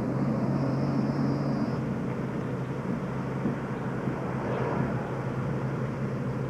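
Car running along a street, a steady engine and road noise; a low engine hum drops away about two seconds in.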